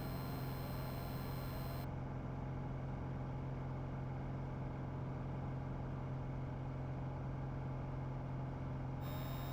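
Steady drone of a Piper PA-28's piston engine and propeller in cruise, heard inside the cockpit, muffled as if through the headset or intercom feed. The higher frequencies fall away from about two seconds in until near the end while the low drone holds steady.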